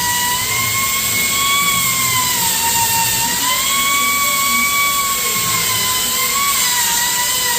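Electric power tool running with a steady high whine over a hiss, its pitch dipping and recovering a few times as it is loaded.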